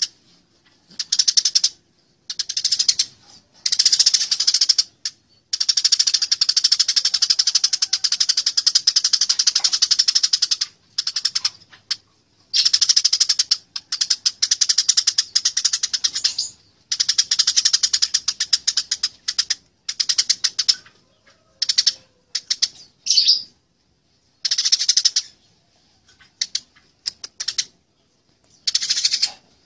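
Eurasian tree sparrows chattering in fast runs of harsh chirps, the agitated calls of sparrows fighting, stopping and starting every second or few with brief pauses between the runs.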